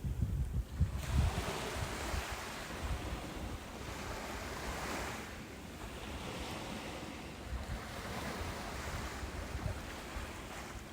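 Ocean surf breaking and washing up a beach, the rush of water swelling and fading every two to three seconds, with low gusts of wind rumbling on the microphone.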